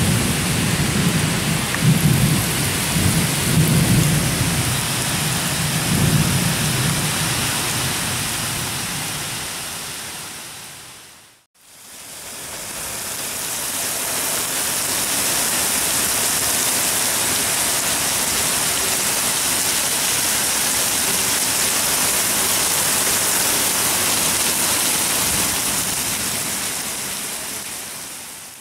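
Heavy rain pouring down steadily in a thunderstorm, with thunder rumbling low through the first several seconds. The sound fades out briefly near the middle and returns as steady rain.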